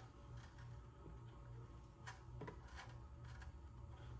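Faint, scattered small clicks and handling noises, about eight in four seconds, over a steady low hum.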